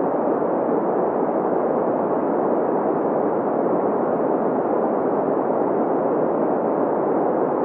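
Green noise: a steady, even hiss with its weight in the middle range, rolled off in the highs and lows.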